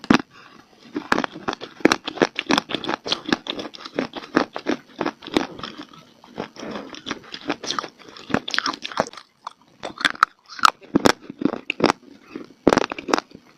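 Close-up crunching of hard, dry clay (mitti) being bitten and chewed: dense, crisp crunches several times a second, with short pauses about nine and twelve seconds in.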